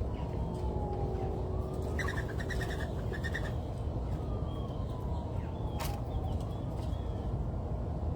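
Wild birds calling over a steady low background rumble: a long falling whistle twice and a quick run of short chipping notes about two seconds in. A single sharp click near the six-second mark.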